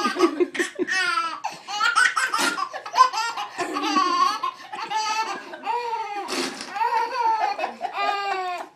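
A baby laughing hard: a long run of high-pitched belly laughs, one burst after another, cutting off abruptly near the end.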